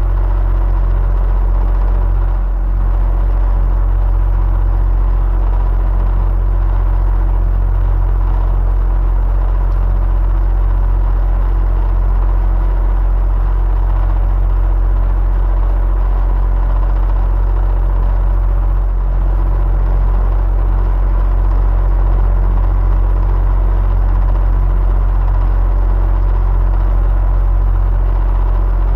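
Electric fan running steadily: a deep, even motor hum with a faint whir and a few faint steady tones above it.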